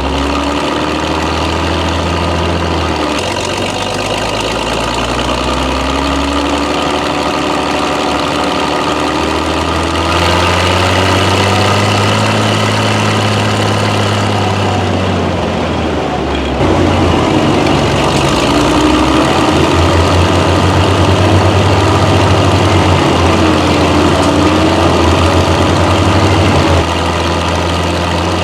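Hetzer tank destroyer's Praga straight-six petrol engine running under way, its pitch rising and falling several times. It gets louder about ten seconds in and again about sixteen seconds in, then drops back near the end.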